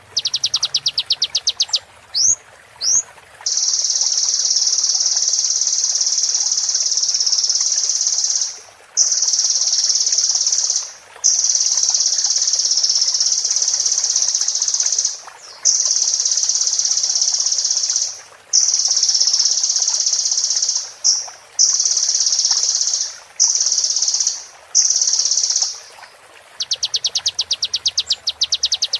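Sunbird (kolibri) singing: a fast staccato trill, a few quick slurred notes, then a run of long, high, buzzy trills lasting a few seconds each with short breaks between them, and the fast staccato trill again near the end.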